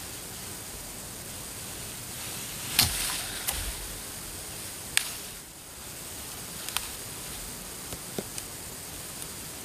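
Steady background hiss broken by a handful of short, sharp knocks or clicks, the loudest about three and five seconds in.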